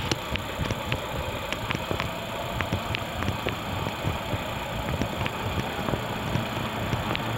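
Low rumble of an approaching Sotetsu 9000 series electric train, growing slightly louder toward the end, with scattered sharp clicks over it.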